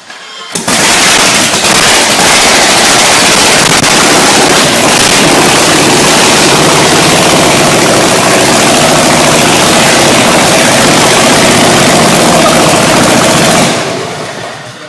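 A very loud, powerful engine bursting into life about half a second in and running flat out with a rapid, crackling firing pulse, then dying away near the end.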